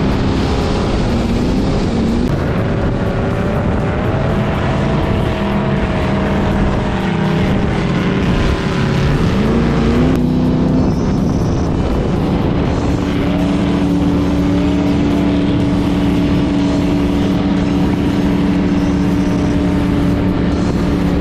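Jet boat V8 engines running loud on the water, their pitch wandering up and down with a quick rise about nine seconds in. From about halfway the engine holds a steady note.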